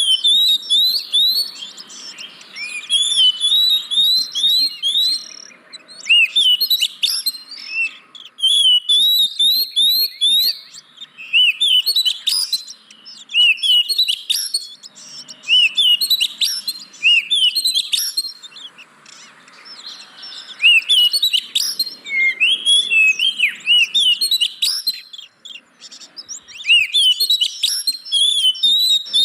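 Oriental magpie-robin (kacer) singing, with fast runs of high whistled sweeps and trills in bursts of a second or two with short pauses between.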